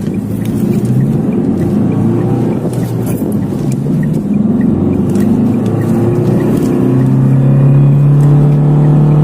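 Tata Harrier's 2.0-litre four-cylinder diesel engine under full-throttle acceleration from standstill. Its note climbs and drops back several times at gear changes, then holds a strong steady drone near the end.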